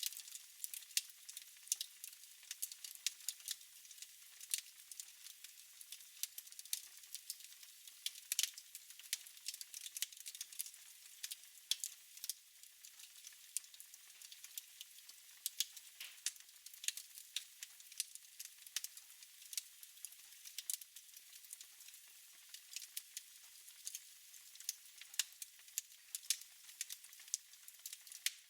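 Wood fire crackling in a fireplace: many irregular sharp pops and snaps over a faint steady hiss.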